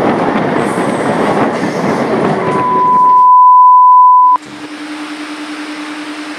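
Express train coaches passing close at speed, a dense rush and rumble of wheels on rail. About two and a half seconds in, a loud steady beep starts; the train noise cuts out and the beep stops suddenly about four and a half seconds in, leaving a quieter low steady hum with hiss.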